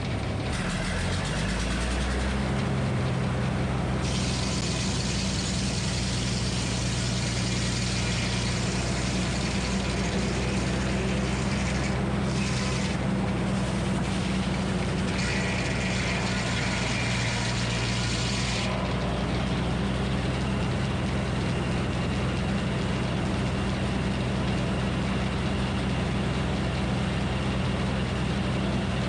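Minneapolis Moline HEB 605 cubic-inch engine idling steadily, warming up after a cold start. A steady hiss joins in for about fifteen seconds in the middle.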